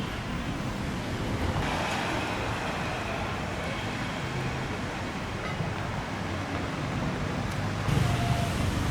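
Street traffic noise: a steady wash of passing vehicles with engine hum rising and falling, a little louder near the end.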